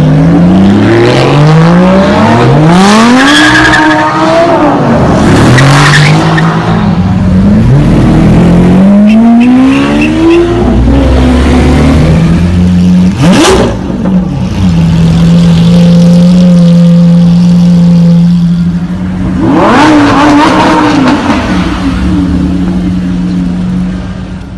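Supercar engines accelerating hard through the gears, the pitch climbing and dropping at each upshift several times over. A sharp crack comes about 13 seconds in, then an engine drones at a steady pitch, with one more rev rising near the end.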